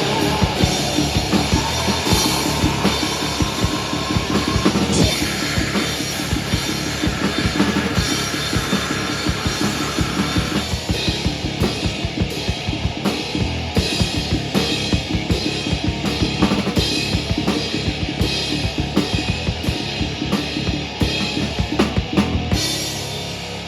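A live rock band playing loud, with the drum kit to the fore: fast, steady kick, snare and cymbal hits. Near the end the drumming stops and a held chord rings on.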